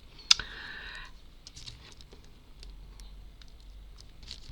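Light clicks and scrapes of hand work with tiny model pieces. A sharp click comes about a third of a second in, followed by a brief scratchy rustle, then scattered faint ticks.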